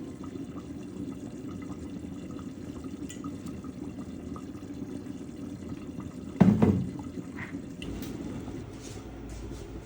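Steady liquid sloshing and bubbling, with one loud knock about six and a half seconds in.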